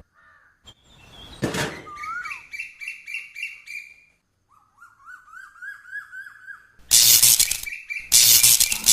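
Rapid runs of short, high bird-like chirps, about six a second, then two loud noisy bursts near the end.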